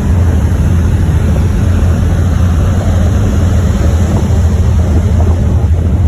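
Car ferry under way: a loud, steady low rumble of engine and hull noise with some wind on the microphone, unchanging throughout.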